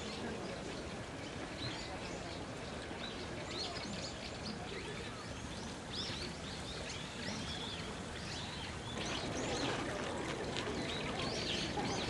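Small birds chirping in short, high calls again and again over a steady outdoor background noise, which grows a little louder about nine seconds in.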